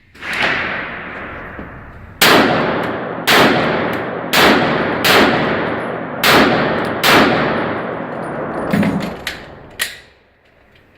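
A 9mm Glock 17-based competition pistol fired in a string of six loud shots about a second apart, each report ringing out with echo. A few quieter knocks follow near the end.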